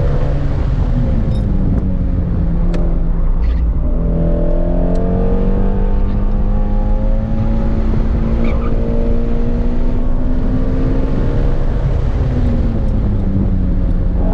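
Shelby GT350's flat-plane-crank V8 under hard driving. The engine note drops over the first few seconds, climbs again and holds, then drops once more near the end.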